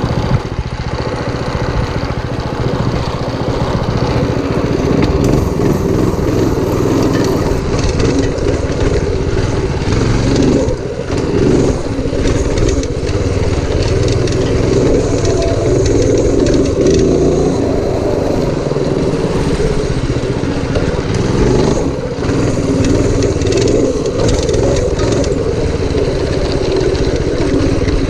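Predator 212cc single-cylinder four-stroke engine on a minibike running steadily under throttle, easing off briefly twice, once about eleven seconds in and again about twenty-two seconds in.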